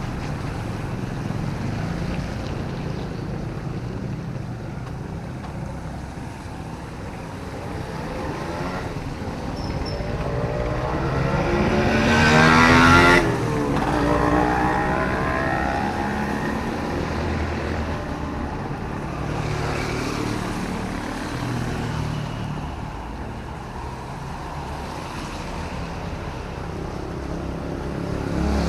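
Street traffic in light rain: a steady low rumble of traffic, with one motor vehicle approaching and passing close, loudest about 13 seconds in, its engine pitch dropping as it moves away.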